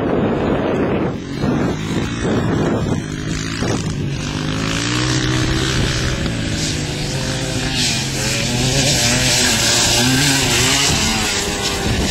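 Motocross dirt bike engine running, its pitch rising and falling as the throttle is worked, with wind buffeting the microphone at first.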